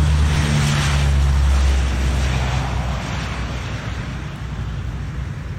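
Super Guppy cargo plane's four turboprop engines at takeoff power, giving a loud, deep propeller drone that starts to fade about two seconds in as the aircraft pulls away.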